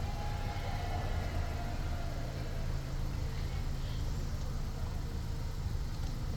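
Car engine running at a steady low rumble, heard from inside the car's cabin.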